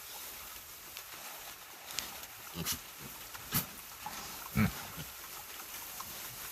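Pigs giving a few short grunts while rooting through hay; the loudest grunt comes about two-thirds of the way through.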